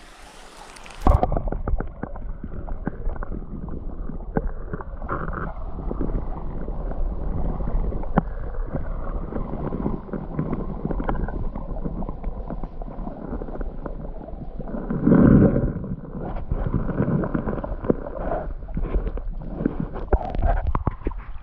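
Muffled underwater sound of a stream, heard through a camera held under the surface: water churning and gurgling, with many small knocks and bumps against the housing. The muffling sets in about a second in, as the camera goes under, and a louder surge of water comes near the middle.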